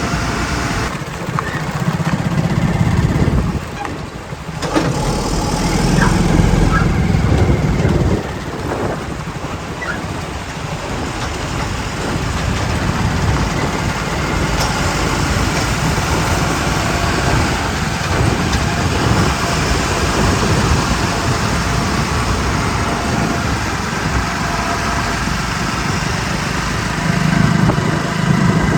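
Heavy diesel engine of a JCB 3DX backhoe loader running steadily, with louder surges a second or so in, again around six seconds, and near the end, as the engine is worked harder.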